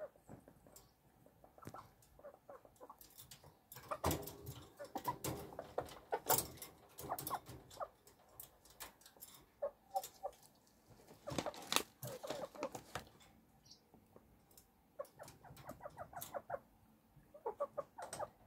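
White silkie hen clucking in short, repeated bursts of calls: the sound a hen makes when she is about to lay an egg.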